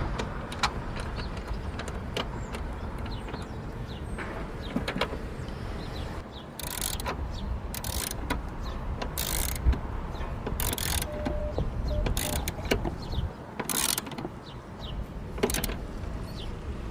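Hand tools and metal parts clicking and knocking while a car battery is being fitted, with a run of short, harsh rasping bursts about every second and a half from roughly seven seconds in. A low rumble sits underneath throughout.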